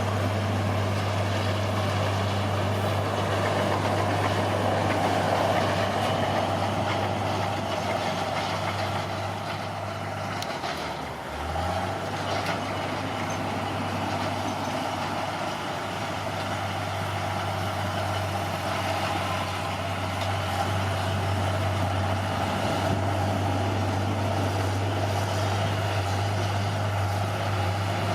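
Bulldozer's diesel engine running steadily with a low hum. About eleven seconds in, the engine note briefly drops, then picks back up.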